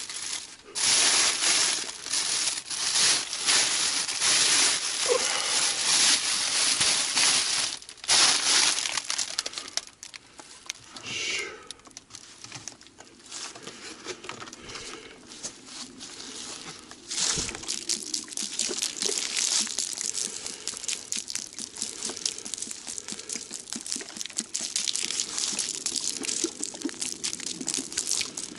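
Crinkling and rustling of camping gear being handled and packed away while breaking camp, in loud bursts for the first several seconds, then a denser run of fine crackling rustles.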